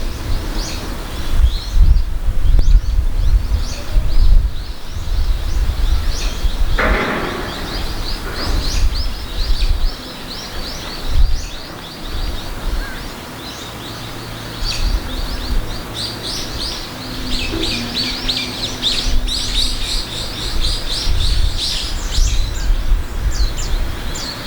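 Small birds chirping busily, many short high notes in quick runs that grow denser through the middle, with one harsher, lower call about seven seconds in, over a steady low rumble of background noise.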